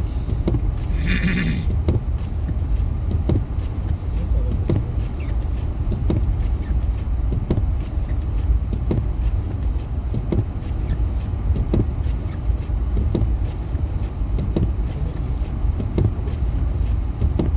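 Steady low rumble of a truck's engine and tyres heard from inside the cab while driving. A soft knock repeats about every second and a half, with a brief higher-pitched sound about a second in.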